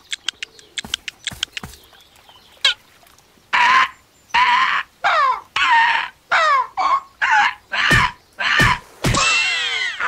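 A quick run of faint taps, then a cartoon bird squawking over and over, about two loud calls a second, each falling in pitch, ending in a longer squawk near the end.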